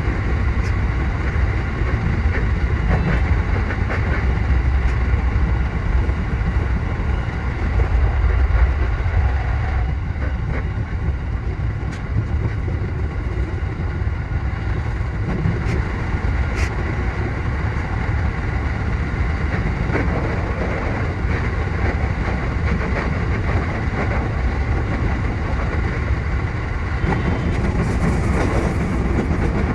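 E233 series 7000 electric commuter train running along the line, heard from inside the train: a steady rumble of wheels on rail with occasional light clicks over rail joints.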